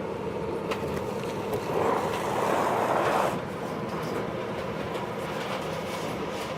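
Running noise of a JR East 583-series train heard inside motor car MoHaNe 582-106: a steady rumble with faint steady tones, and a louder rushing hiss about two seconds in that lasts just over a second.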